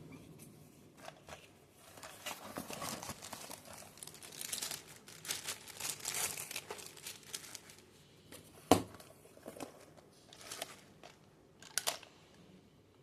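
Plastic or paper packaging being handled, crinkling and rustling for several seconds, then a sharp knock followed by a few lighter clicks.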